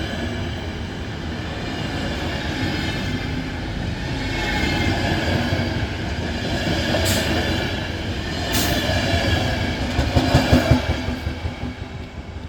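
A train passing at speed, wheels running on the rails with a steady whine and a few sharp clicks. It is loudest shortly before the end and then fades as it goes by.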